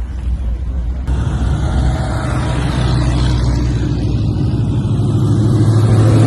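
Car engine with a deep rumble, suddenly getting louder and fuller about a second in and building steadily after that as it accelerates.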